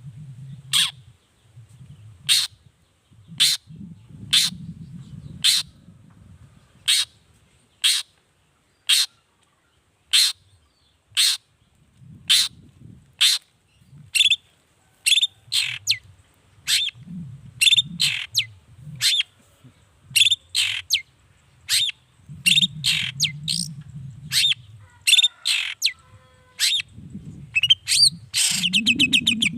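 Long-tailed shrike (cendet) calling with sharp, harsh notes, about one a second at first and then quickening to about two a second. Near the end it breaks into a fast rattling run. A low rumbling noise comes and goes underneath.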